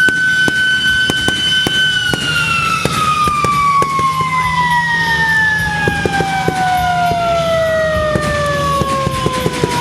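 A siren holds one high tone, then winds slowly and steadily down in pitch over several seconds, like a motor-driven siren spinning down. Many sharp cracks and pops sound throughout underneath.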